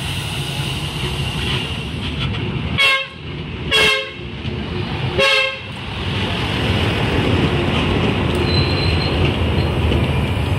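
Sri Lelawangsa diesel multiple unit (KRDI) train sounding its horn in three short blasts, about three, four and five seconds in. From about six seconds its carriages run past close by with a louder, steady rumble of wheels on rails.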